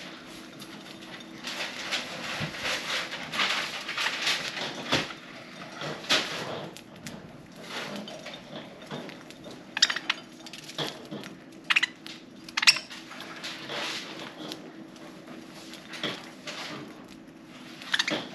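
Budgies pecking at and cracking millet seeds with their beaks: a busy run of small rapid clicks and crackles, with a few sharper, louder clicks about ten and thirteen seconds in.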